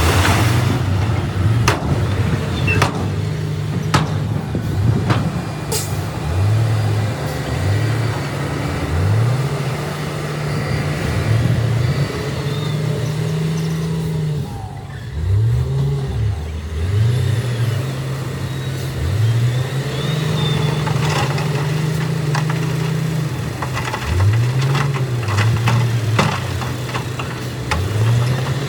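Heavy earthmoving machine's diesel engine revving up again and again, its pitch rising each time, with scattered knocks and clanks.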